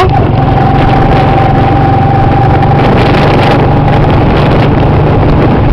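A motor vehicle's engine running steadily under loud, even noise, with a steady whine that fades about four seconds in.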